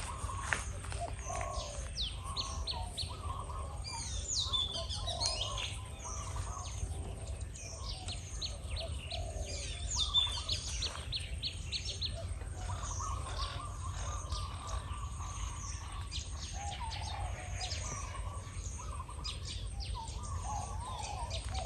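Small birds chirping and twittering throughout, with low, wavering dove coos underneath, including spotted doves.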